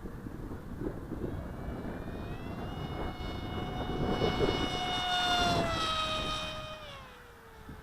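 Motor and propeller whine of an RC flying wing flying past: it grows louder, then drops in pitch and fades as it goes by. Gusty wind buffets the microphone underneath.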